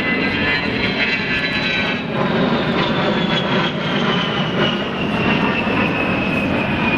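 An airplane's engine running loud as it flies past, with a high whine falling slowly in pitch.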